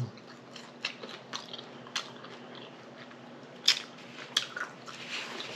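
A person biting and chewing fried chicken wings close to the microphone: irregular wet crunches and mouth clicks, with a couple of louder bites in the middle.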